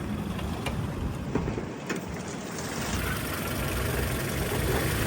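A 2004 Toyota Tacoma's 2.4-litre 2RZ-FE four-cylinder idling steadily, with a few short clicks in the first two seconds; the engine sound gets louder about three seconds in.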